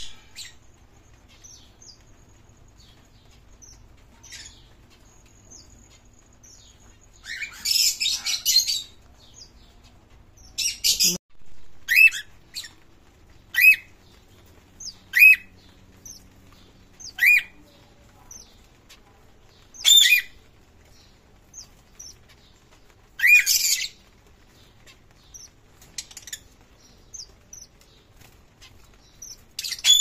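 Pet birds in a cage calling: short, sharp chirps repeated every one to three seconds, with a burst of rapid chattering about eight seconds in.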